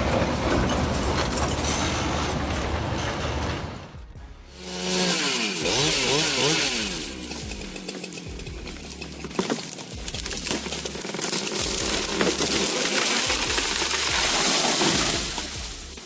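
Chainsaw running and cutting through wood from about four seconds in, its pitch rising and falling, under background music; before that, a different engine-like sound that cuts off.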